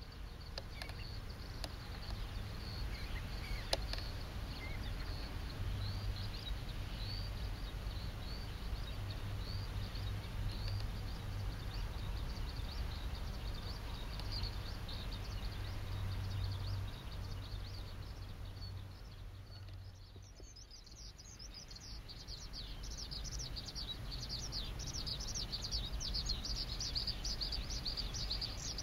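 Birds chirping in many short, high calls that grow thicker near the end, over a steady low rumble.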